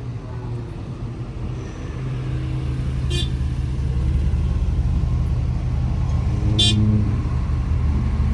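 Car and road noise: a steady low rumble that grows louder about two seconds in, with two short, sharp high chirps about three and a half seconds apart.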